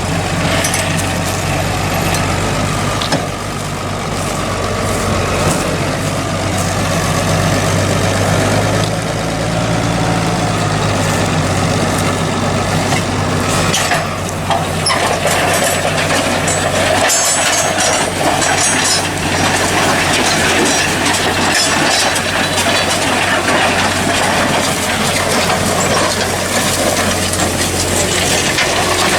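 Tractor engine running steadily under load as it pulls a reversible plough through dry, stony soil, with scattered clicks and rattles in the second half.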